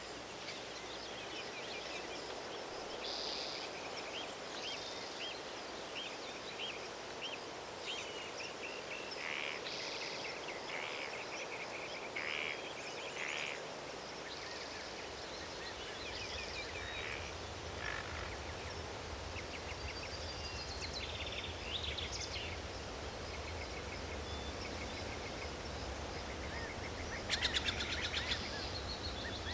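Forest ambience: several birds singing and chirping over a steady background hiss, with a low rumble joining about halfway through and a short, louder burst of rapid chattering near the end.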